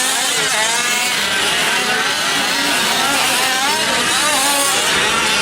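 Several 5th-scale RC trucks' small two-stroke gasoline engines buzzing and revving together, their pitches rising and falling as the trucks throttle on and off.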